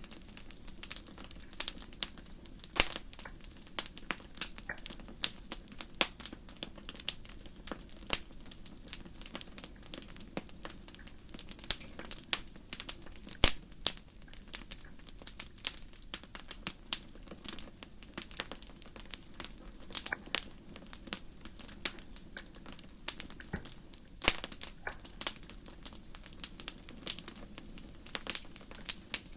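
Fire crackling: irregular sharp pops and snaps, several to the second, one louder snap about halfway through, over a faint steady low rumble.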